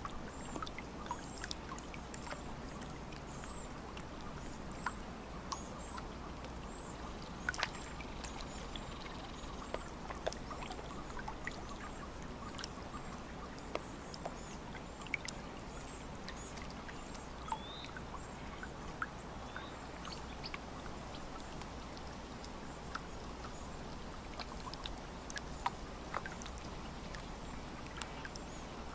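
Lake water lapping gently at the shore, a steady wash broken by many small splashes and drips. Faint high chirps of birds come and go over it.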